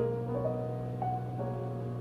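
Background piano music, a gentle melody of single notes coming about every half second.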